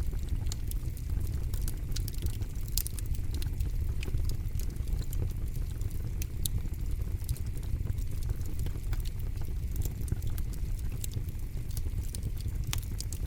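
Wood campfire crackling: frequent irregular sharp pops and snaps over a steady low rumble of the flames.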